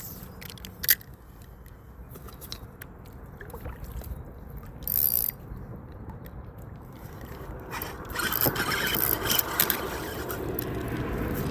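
Scrapes and clicks of rod, reel and gear against a kayak hull, with a low steady rumble. From about eight seconds in the noise grows louder and busier, with many clicks, as a bass is fought and brought to the kayak.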